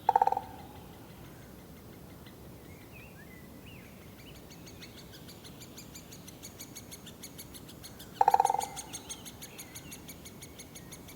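Male great spotted woodpecker drumming on dry, resonant wood: two short, rapid rolls with a ringing tone, one at the start and one about eight seconds in. From about halfway, nestlings keep up rapidly repeated high begging calls, with faint chirps before that.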